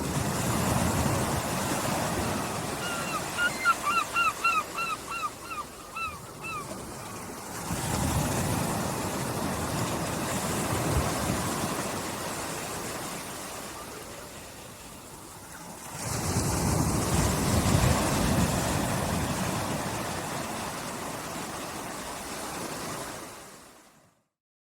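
Gentle sea waves washing onto a beach, each wash swelling and ebbing about every eight seconds. About three seconds in, a bird calls a quick run of about ten short falling notes. The sound fades out to silence just before the end.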